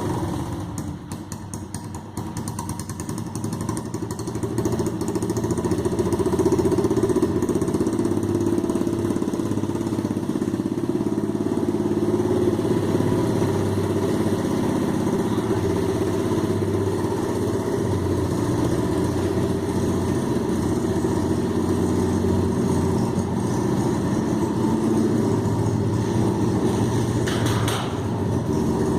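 125 cc pit bike's single-cylinder engine running steadily, quieter for the first few seconds and then louder from about five seconds in.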